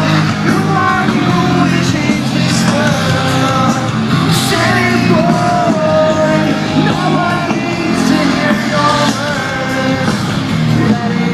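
Live rock band playing loudly with a lead singer, recorded from the crowd.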